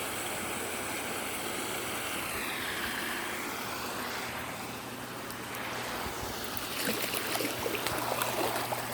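Storm runoff flowing in a steady rush through a neighborhood street channel, with sharper splashing in the last couple of seconds.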